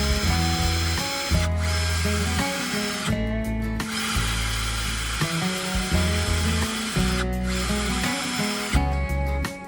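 A power tool running in a workshop, heard under background music.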